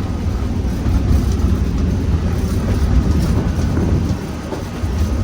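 Class 47 diesel locomotive heard from the cab on the move, its Sulzer twin-bank twelve-cylinder engine running steadily at low power over the noise of the wheels on the rails. The loudness dips briefly a little after four seconds.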